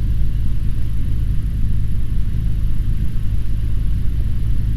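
Cessna 150's Continental O-200 four-cylinder engine running steadily in flight, heard inside the cabin as an even, low drone.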